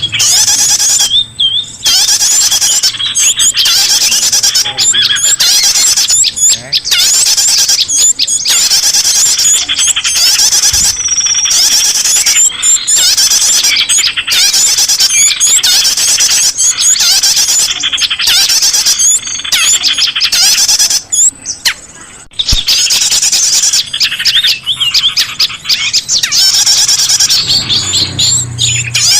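Loud, dense chatter of many small birds chirping and squeaking over one another: a noisy bird-lure recording played to draw in small birds.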